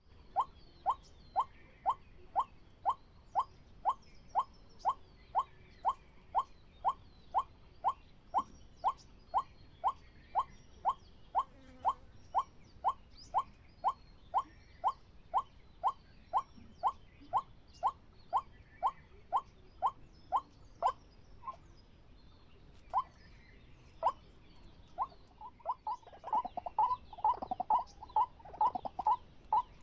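Waterhen calling: a monotonous run of short, evenly spaced notes, about two a second. After a short pause, the calls come faster, louder and more ragged near the end.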